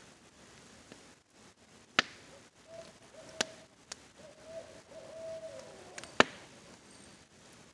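An owl hooting, a run of low hoots through the middle, while a crackling campfire gives several sharp pops, two of them loud, over a faint steady hiss of rain.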